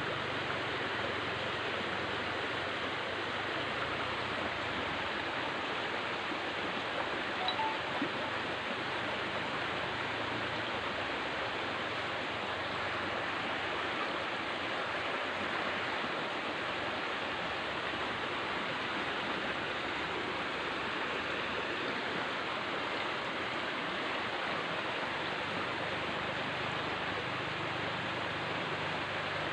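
River water flowing steadily, an even rushing sound without a break.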